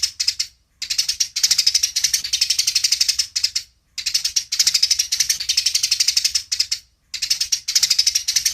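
Eurasian tree sparrows giving rapid, chattering fighting calls: fast runs of sharp chirps in bursts of about three seconds, broken by short pauses.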